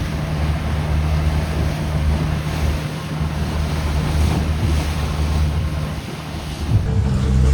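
Boat engine running steadily under way, with wind buffeting the microphone and the rush of water and waves. About 7 s in, the sound changes abruptly.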